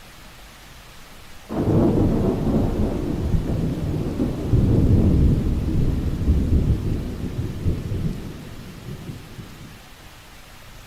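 A thunderclap that breaks out suddenly about a second and a half in and rolls on as a long low rumble, fading away near the end, over steady rain.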